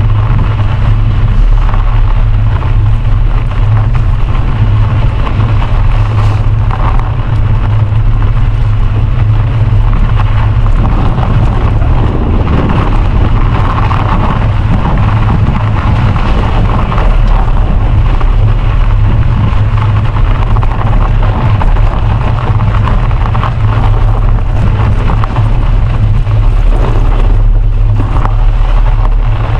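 Wind buffeting the camera microphone during a bicycle ride: a steady, loud low rumble with a noisy hiss above it.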